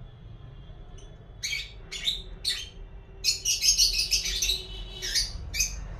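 Young lovebirds calling in short, high, scratchy chirps: a few separate calls, then a denser run of chirping near the middle.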